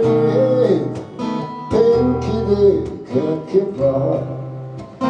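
A song played live on strummed acoustic guitar, with a held melody line over the chords in short phrases.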